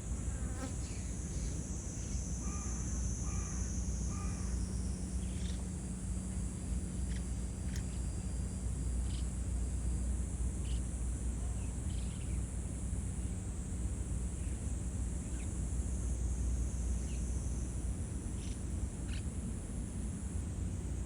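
A steady high-pitched insect chorus over a low rumble, with short chirps scattered through it and a brief run of repeated short calls a few seconds in.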